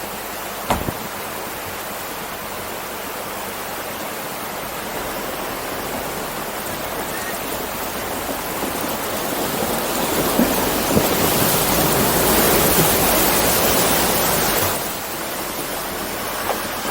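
Rushing water, a steady hiss that builds louder and then drops off suddenly near the end, with a single knock about a second in.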